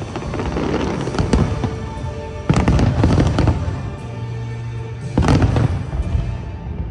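Aerial fireworks bursting and crackling, with two loud bursts about two and a half and five seconds in, over continuous music.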